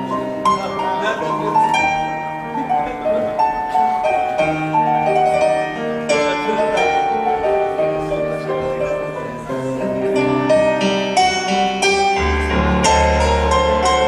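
Instrumental passage of a live song led by piano, with sustained melody notes over moving chords; a deep bass comes in about two seconds before the end.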